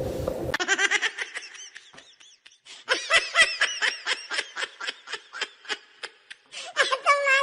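High-pitched laughter in a fast run of short bursts, about four or five a second, with a brief pause partway through.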